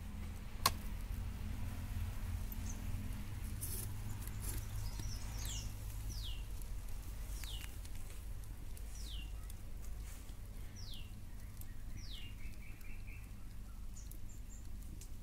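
A bird calling: a series of about six short whistles, each falling in pitch, one every second and a half or so, ending in a brief trill. Under it runs a low steady rumble, with one sharp click less than a second in.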